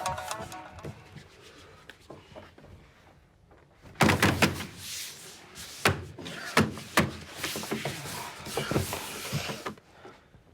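Background music fading out. After a quiet stretch, a run of knocks and thuds begins about four seconds in and repeats irregularly.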